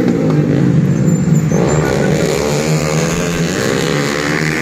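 Several stock underbone motorcycles racing on a grass track, their small engines revving with rising and falling pitch. One bike accelerates about a second and a half in.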